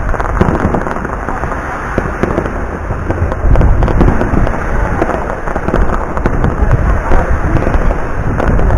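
Fireworks display going off in a dense barrage of bangs and crackling, growing louder about three and a half seconds in.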